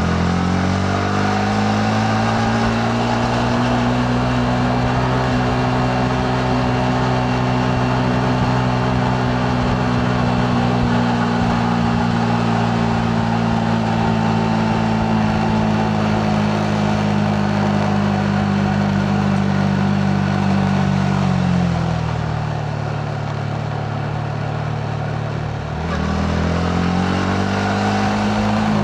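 Yamaha MT-15's single-cylinder engine heard from the rider's seat while riding, with a rush of wind and road noise. The engine note rises at the start and holds steady under throttle. It drops about 21 seconds in as the throttle eases off, then climbs again about 26 seconds in as the bike accelerates.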